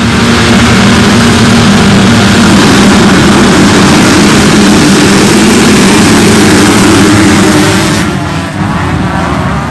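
Motocross bike engines running at high revs, loud and sustained, then falling away after about eight seconds.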